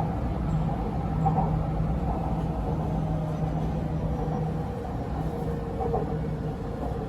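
Electric metro train running between stations, heard from inside the car: a steady rumble with an even motor hum, and a fainter higher tone that drops slightly in pitch near the end.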